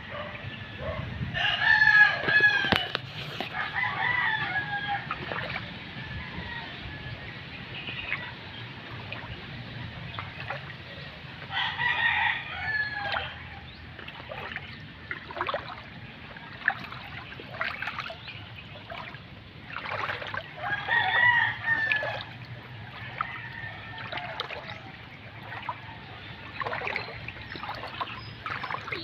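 Rooster crowing three times, roughly nine seconds apart, each crow lasting about two seconds, with fainter short calls in between.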